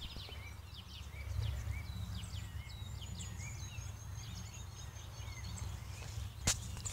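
Small birds chirping in the background, many short quick falling calls with a thin, high held note in the middle, over a low rumble of wind or handling on the microphone. A single sharp click near the end.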